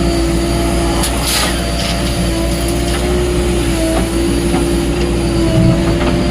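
Diesel engine of a JCB 3DX Plus backhoe loader running steadily under work, with a deep rumble, and a brief rushing hiss about a second in.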